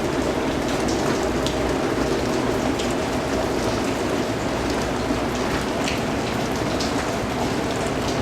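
Steady rain falling on a surface, with scattered individual drips standing out as brief sharp ticks.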